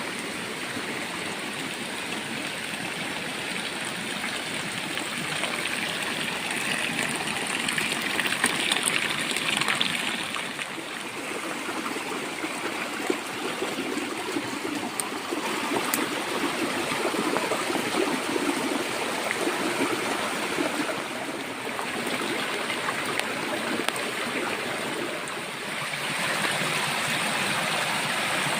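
Heavy rain falling steadily as a dense, even hiss with scattered sharp drop ticks. It swells about a quarter of the way in and again near the end.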